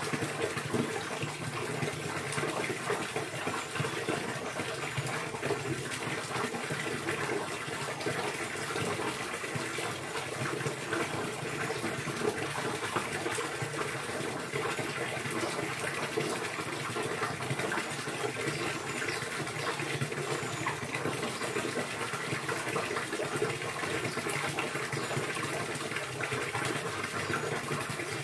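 Steady rush of flowing, splashing water, unbroken and even in level throughout.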